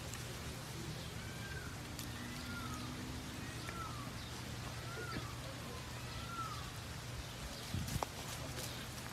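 A bird calling: five short rising-and-falling whistled notes about a second apart, over a low steady rumble. A short thump near the end.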